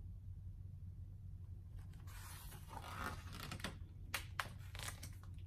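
Pages of a picture book being turned: paper rustling with a few sharp flicks, starting about two seconds in and ending near the end, over a steady low hum.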